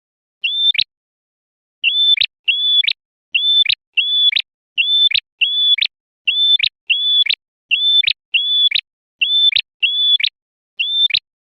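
Male prenjak merah (a small prinia-type songbird) calling, from a clean lure recording. Each call is a brief high level note ending in a sharp downward flick, repeated mostly in quick pairs about every second and a half.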